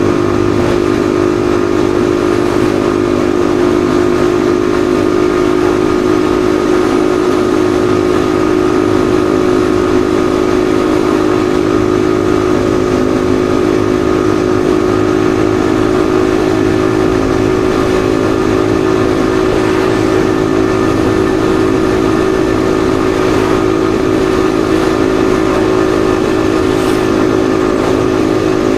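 Yamaha XSR155's single-cylinder engine running at a steady speed while cruising, its pitch holding even throughout.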